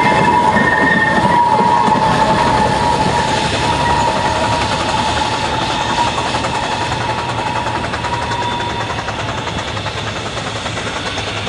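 Narrow-gauge goods train running past and away, wheels clattering on the rails and slowly fading. A high steady tone comes and goes over the rumble until about two-thirds of the way through.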